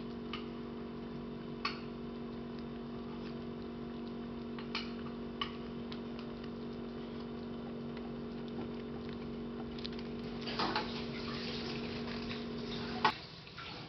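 A steady, low electrical or motor hum with scattered small clicks over it; the hum stops abruptly with a sharp click about 13 seconds in.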